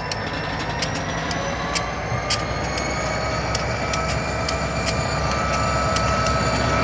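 Slow freight train of tank cars rolling through a grade crossing: irregular wheel clicks and knocks on the rail over a steady whine. The diesel locomotive's low rumble grows louder toward the end as it nears.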